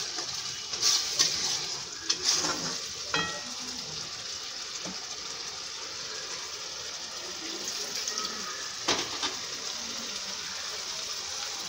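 Tomato and ginger-garlic masala sizzling steadily in oil in a non-stick kadai. A few short knocks and scrapes of a metal spatula against the pan come in the first three seconds, and one more about nine seconds in.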